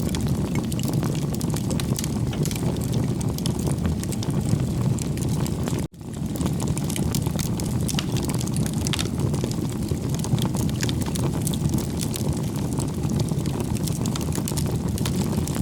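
Wood fire burning, a steady low rush with frequent small crackles and pops; the sound cuts out for an instant about six seconds in.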